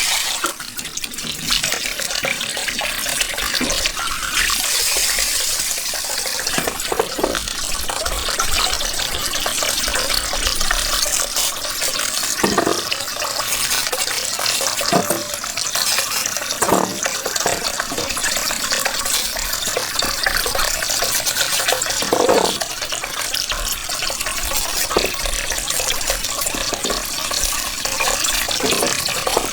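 Steady running water, with a few brief knocks or splashes, about four of them spread through the stretch.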